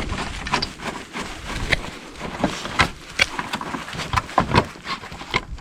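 Irregular small clicks and knocks of hand tools and parts being handled while the loader joystick assembly is taken apart.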